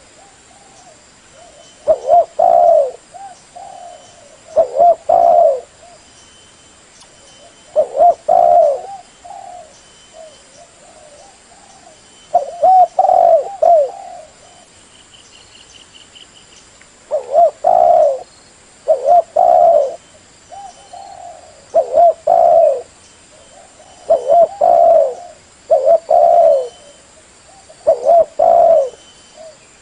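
Spotted dove cooing: repeated low multi-note coo phrases, one every two to three seconds. This is the call of a decoy dove used to lure wild doves.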